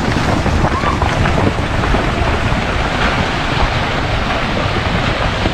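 Loud, steady rushing noise of wind buffeting the microphone outdoors, with faint voices now and then.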